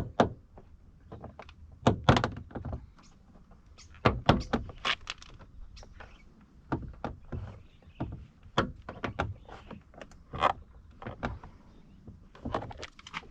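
Plastic inner door trim panel of an Abarth 500 being levered off with a trim removal tool: irregular clicks, knocks and creaks as the tool pries at the very stiff panel.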